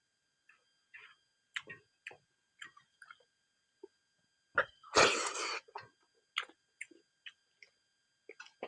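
Close mouth sounds of someone eating silkworm pupae: scattered small crunches and lip smacks, with one loud cough about five seconds in.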